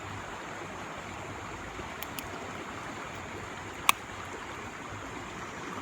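Steady rush of flowing river water, with two faint clicks about two seconds in and one sharper click near four seconds.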